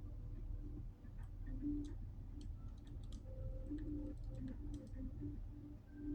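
Low wind rumble with many light, irregular clicks and ticks scattered over it.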